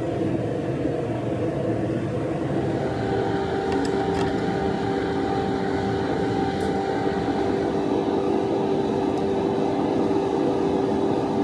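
A motor-driven machine running steadily, with a constant hum over a rushing noise.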